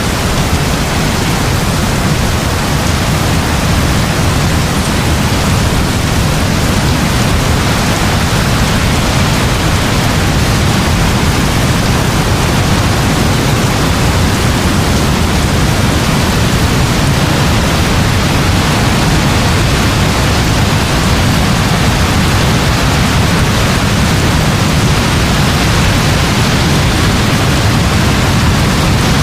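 Heavy rain falling steadily: an even, unbroken hiss with a deep rumble underneath.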